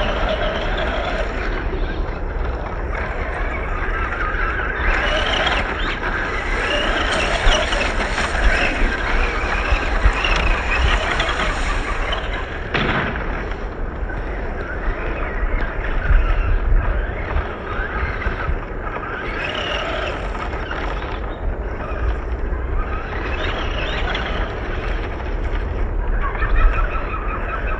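Small brushed electric motor of an RC monster truck whining as it drives, its pitch rising and falling with the throttle, loudest between about five and twelve seconds in, over a steady low rumble of wind on the microphone.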